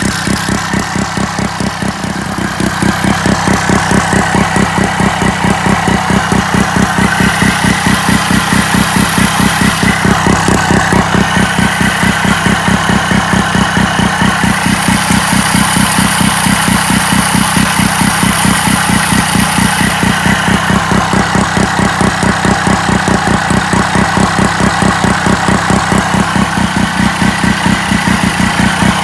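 Sachs KM48 single-rotor Wankel engine running steadily with an even, rapid pulse, picking up slightly about two seconds in.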